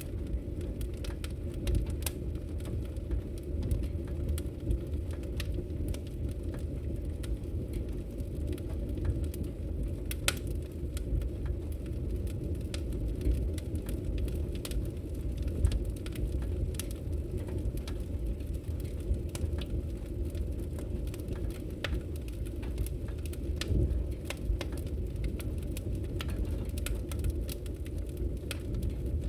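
Wood logs burning in a fireplace: frequent sharp crackles and pops over a steady low rumble of the fire.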